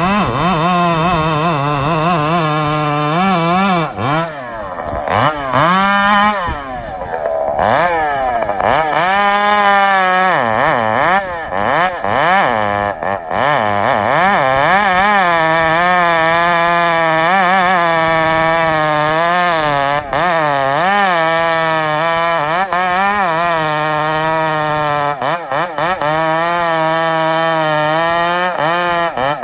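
Two-stroke chainsaw running at high revs under load as it cuts, its pitch wavering up and down the whole time, with deeper dips and sweeps between about four and eight seconds in.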